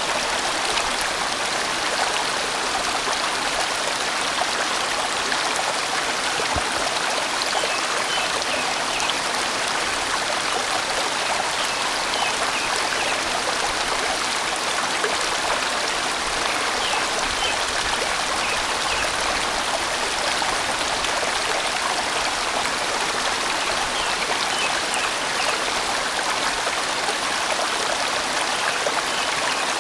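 A large mountain-valley stream flowing steadily, a constant rush of water.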